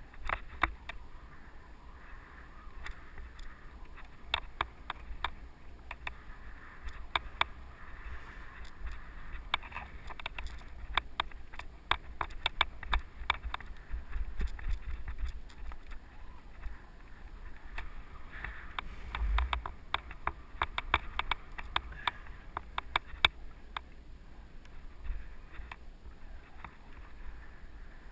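Giant mountain bike rattling over a rough dirt trail: runs of sharp clicks and clatter from the bike, thickest in two stretches, over a steady low rumble.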